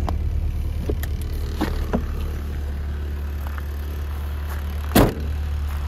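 A 1994 Mini's small four-cylinder engine idling steadily, with a few light clicks and one loud thump about five seconds in.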